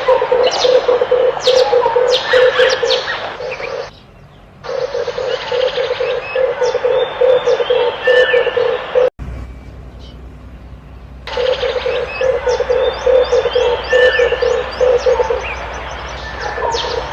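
Red turtle doves cooing in repeated low, pulsing phrases, with other small birds chirping high over them. The sound drops out briefly about four seconds in, and again for about two seconds around the middle, where only a low hum is left.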